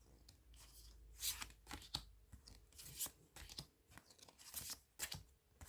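Tarot cards being handled, turned over and laid down: faint, irregular papery flicks and slides, about one or two a second.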